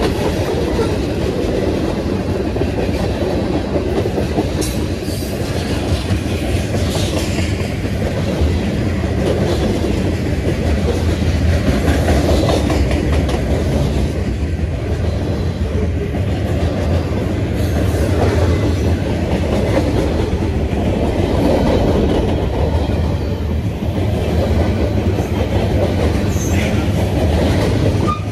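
Freight train cars rolling past with a steady rumble and clickety-clack of wheels over the rail joints, with a couple of brief high squeaks from the wheels.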